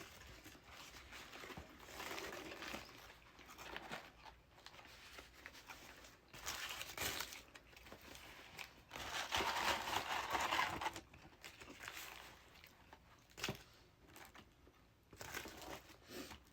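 Paper food wrapping crinkling and crumpling, in bursts, loudest a little past halfway through, with a short sharp crackle near the end.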